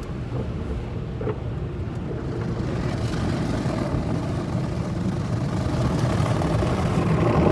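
Automatic drive-through car wash working over the car, heard from inside the cabin: a steady low rumble, with a rushing hiss that builds and grows louder from about three seconds in.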